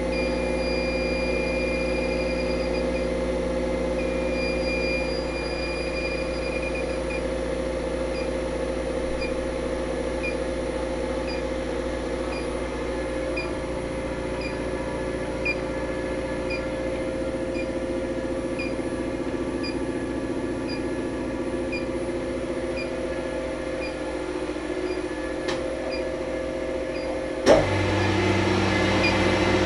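Refrigeration machinery in a compressor room giving a steady hum, with faint high beeps about once a second. About two seconds before the end a sharp click comes, and a louder, deeper hum starts.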